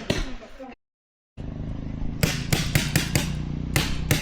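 Paintball markers firing in quick, uneven pops. The sound drops out completely for about half a second near the start, then the pops resume over a steady low hum.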